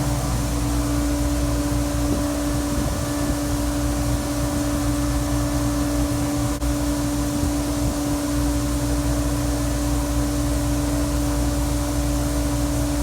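John Deere S780 combine running steadily while harvesting, a constant machine drone with a steady hum over a low rumble.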